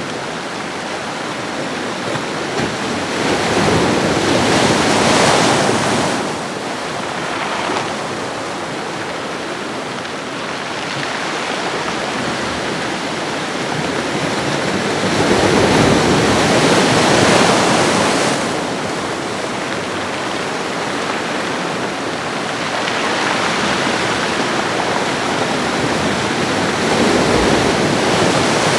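Ocean waves breaking and washing along a shore: a continuous rush of surf that swells and ebbs, with bigger waves cresting about a quarter of the way in and again around the middle.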